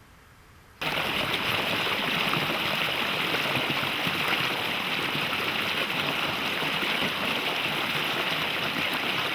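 Mountain stream rushing, a steady, even wash of water noise that cuts in suddenly a little under a second in after a quiet moment.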